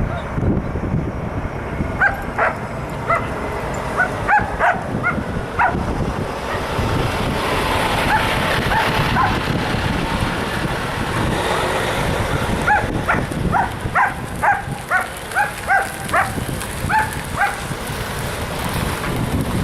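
A dog barking in quick, high-pitched yaps, two bouts of about a dozen each, over wind rumbling on the microphone.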